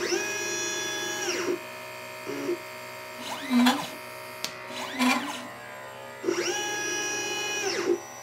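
Stepper motors of a LitePlacer pick-and-place machine whining as the head travels, each move rising in pitch, holding, then falling: two long moves of about a second and a half, at the start and about six seconds in, with short chirping moves between them. A faint steady hum runs underneath.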